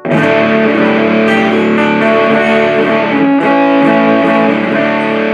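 Electric guitar played through a 77 Fuzz Blender, an op-amp Big Muff–style fuzz pedal, into an Orange Super Crush 100 amp. It plays sustained chords with heavy fuzz distortion, changing chord a few times.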